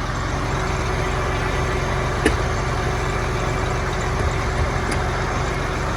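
Vehicle engine running steadily with a low rumble, and a single sharp click about two seconds in.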